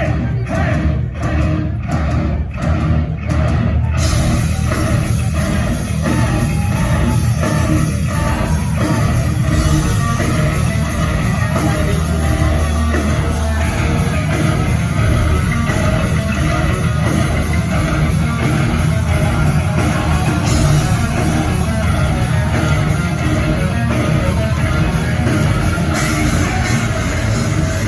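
Heavy metal band playing live with loud, distorted electric guitar. The first few seconds are choppy stop-start hits, about two a second, and then the full band plays continuously from about four seconds in.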